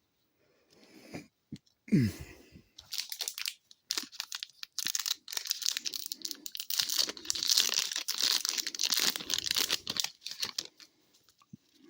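A trading-card pack wrapper being torn open and crinkled by hand, a long run of crackling and rustling that ends about a second before the close. A brief low sound comes about two seconds in, before the tearing starts.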